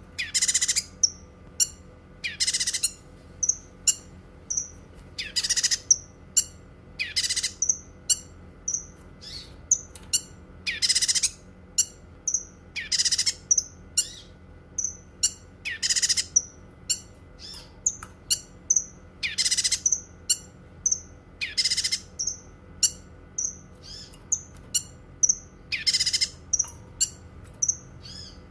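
Cucak kinoi songbird singing: a loud call every two to three seconds, with short high chirps in between.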